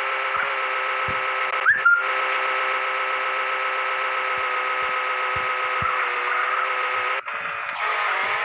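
A small electric motor whirring steadily with a high-pitched whine. It stutters briefly about two seconds in and drops out for a moment near the end.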